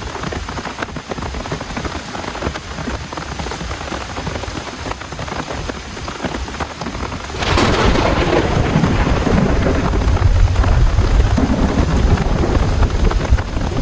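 Heavy rain falling steadily; a little past halfway a thunderclap cracks sharply and rolls on as a long, deep rumble.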